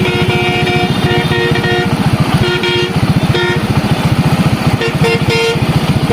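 A small vehicle engine running steadily close up, with a horn honking over it: one long blast at the start, then several shorter toots.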